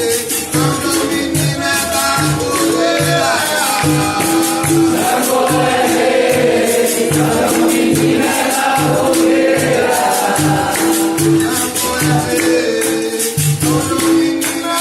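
Capoeira music: voices singing a chorus over a steady percussion beat of about two strokes a second, with a rattle and jingles running through it.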